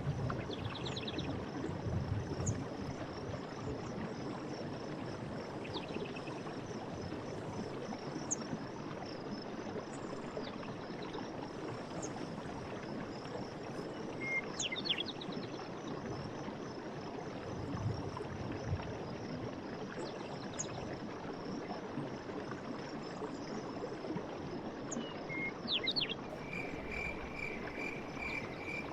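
Night forest ambience: crickets trilling steadily over an even background hiss, with scattered short chirps. Near the end a second, lower pulsing trill starts up.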